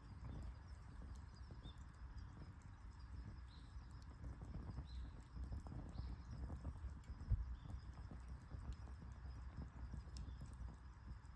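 Wood campfire crackling: a steady low rumble of flame with many small irregular pops and snaps, and one sharper pop about seven seconds in.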